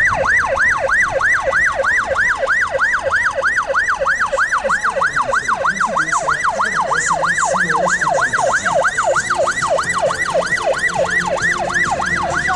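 Electronic vehicle siren sounding a fast yelp, its pitch sweeping up and down about three times a second, steady and loud.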